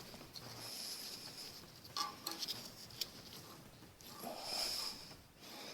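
Faint scraping and a few light clicks as a steel stud is turned into a threaded hole in a cast-iron flathead Ford V8 block.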